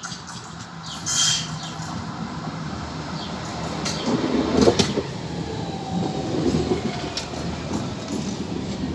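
A London Tramlink tram running along its rails: a steady rumble with scattered clicks and knocks from the wheels on the track, loudest about halfway through, and a faint falling whine later on.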